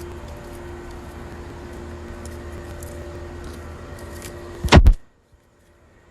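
Steady low background hum with a faint steady tone, then a loud brief rub and knock of the phone being handled against its microphone about three-quarters of the way in, after which the sound cuts out almost completely for about a second.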